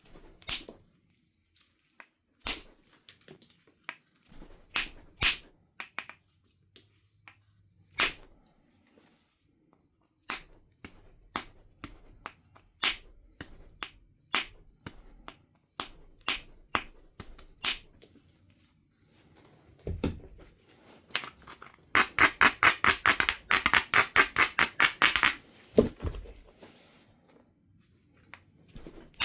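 Knife River flint biface being knapped: a long series of separate sharp clicks and taps of tool on stone, with two heavier knocks. Near the end comes a fast, even run of about ten scraping strokes a second lasting three or four seconds.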